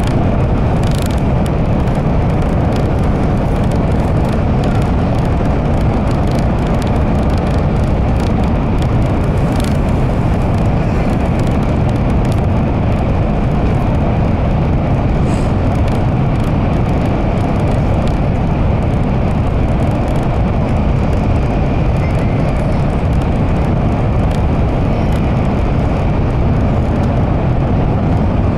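Cabin noise of an N700 series Shinkansen running at speed through a tunnel: a loud, steady rumble of wheels and rushing air, with a faint steady high whine. Right at the end it eases slightly as the train comes out of the tunnel.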